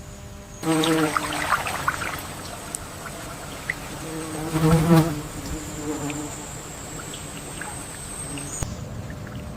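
Insects buzzing: a fly-like buzz swells and fades twice, about a second in and again around four to six seconds in, over a thin, steady high-pitched insect whine.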